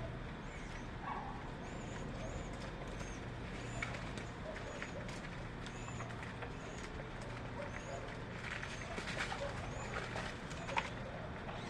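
Small birds chirping: short, high, arched notes repeated about once a second, with a few faint clicks over a steady low hum.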